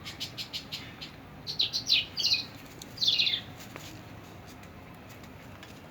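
Small birds chirping: a quick run of short high chirps, then louder twittering phrases that fall in pitch, about one and a half and three seconds in. The calls stop about three and a half seconds in.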